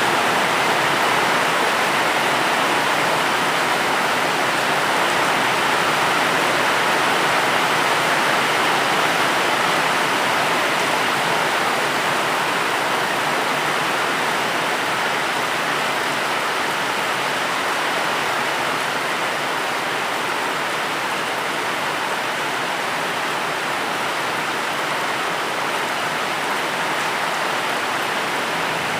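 Steady, heavy rainfall: an even, unbroken hiss with no single drops or thunder standing out.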